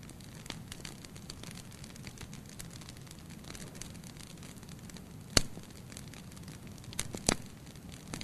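Fire burning in a fireplace: a steady low rush of flames with scattered small crackles, a sharp loud pop about five seconds in and two more pops close together near the end.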